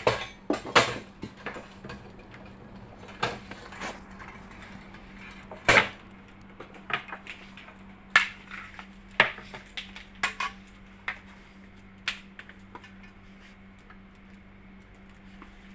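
Irregular metallic clicks and knocks of sewing machine parts and hand tools being handled and fitted during reassembly, about a dozen in all, the loudest a little before the midpoint, over a faint steady hum.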